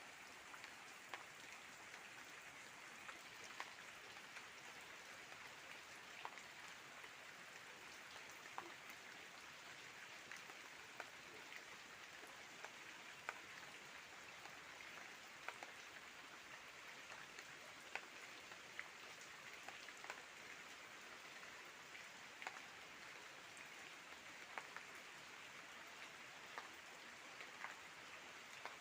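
Soft, steady rain falling, with scattered individual drops landing at irregular moments.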